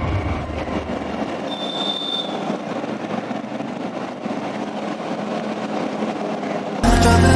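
Steady rushing vehicle noise, with a brief high-pitched squeal about two seconds in; music cuts back in sharply near the end.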